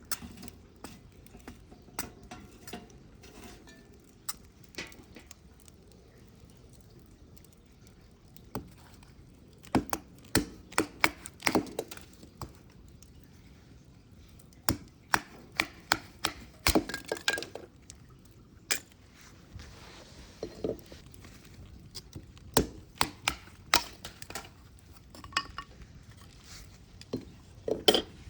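Irregular sharp knocks and clinks of hard objects being handled, coming in clusters with short pauses between.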